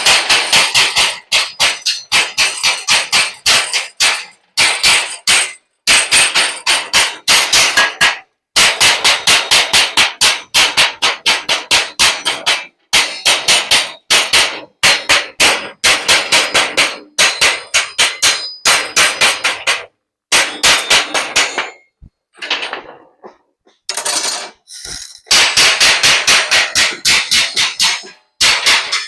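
Rapid hammering on metal: quick runs of sharp, ringing blows, about five a second, broken by short pauses.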